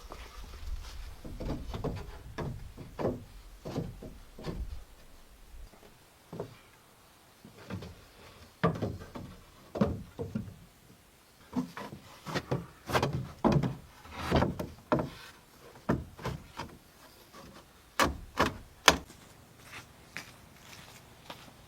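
Irregular wooden knocks, rubs and short scrapes, as of timber being handled or worked, coming in loose clusters with a few sharper knocks near the end.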